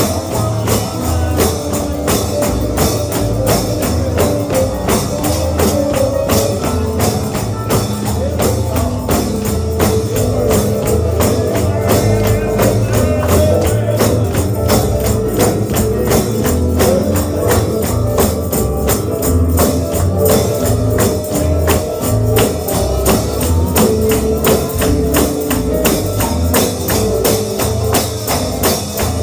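Bluegrass gospel music played without vocals, with a tambourine keeping a steady, even beat over sustained instrumental tones and a bass line.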